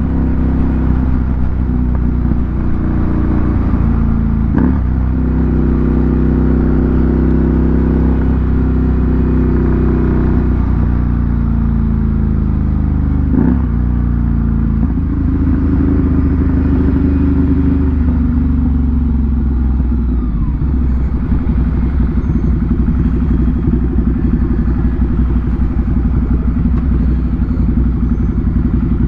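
Ducati Monster 797's air-cooled L-twin running through an SC Project aftermarket exhaust under way. Its note breaks sharply with gear changes about 5 and 13 seconds in, then the revs fall away about two-thirds through and it settles to a low, uneven idle.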